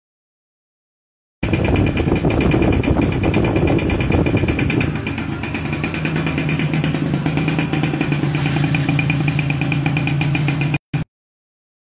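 Yamaha Yaz's single-cylinder two-stroke engine running, rough and loud at first, then steadier from about five seconds in. The sound cuts out completely at the start and again near the end.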